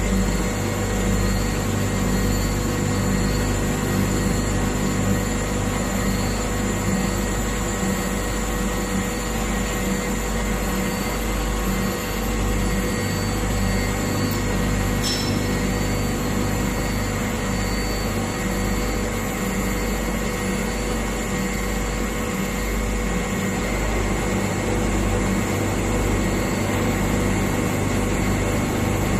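Internal and external cylindrical grinding machine running: a steady mechanical hum with several constant tones and a low pulsing drone.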